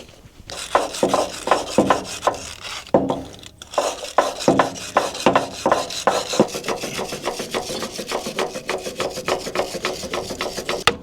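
Repeated hand scraping strokes on the Wood-Mizer sawmill's band wheel belt, clearing packed sawdust whose buildup is the suspected cause of the blade coming off. The strokes start about half a second in, come a couple a second at first, then speed up to a quick, even rhythm of several a second.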